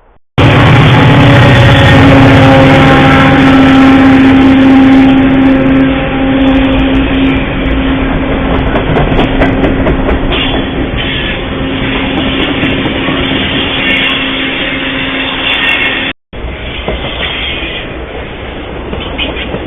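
Train passing very close, recorded by a trail camera: a dense rumble of locomotive and rolling wheels, with a strong steady tone over the first several seconds and scattered wheel squeaks and clicks later. The sound cuts out for a moment about 16 seconds in and resumes with a train still passing.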